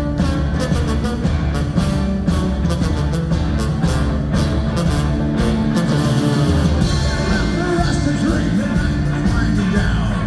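Ska-punk band playing live at full volume, drums, bass and guitars driving steadily with no break between songs. The drum hits are strongest in the first half, and held notes come to the front about six seconds in.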